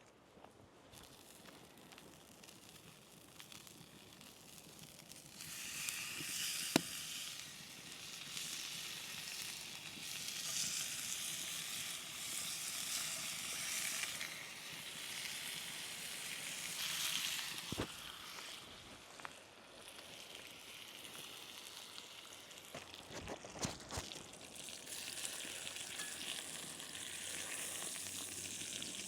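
Food sizzling in hot fat over a campfire. A soft background for the first few seconds, then a loud, uneven sizzle from about five seconds in, with a few sharp pops.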